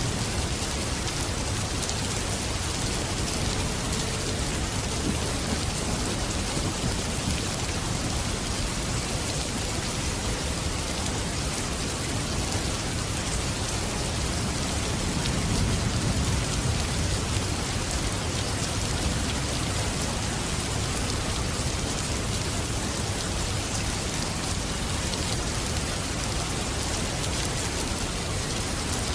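Steady rain falling, an even hiss of drops on surfaces. A low rumble swells briefly about halfway through.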